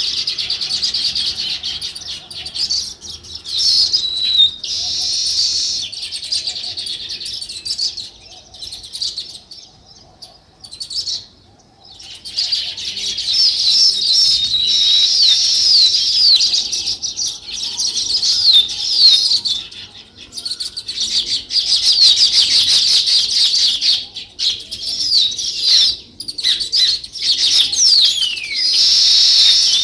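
Flock of small birds chattering, with many fast overlapping chirps. The chatter drops away briefly about a third of the way in, then swells again, and one long falling note stands out near the end.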